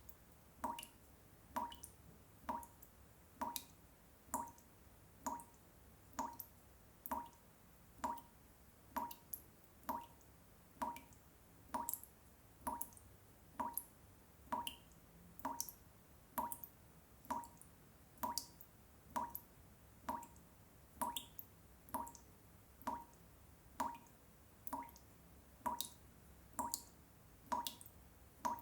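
Water dripping at a steady, even pace, about three drops every two seconds, each a short plop with a bright click on top.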